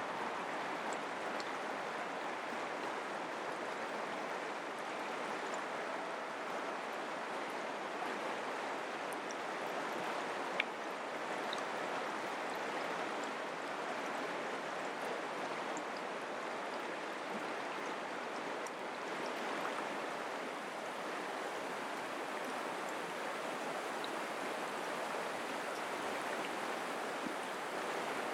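Mountain creek flowing steadily, an even rushing of water. A single sharp click about ten seconds in.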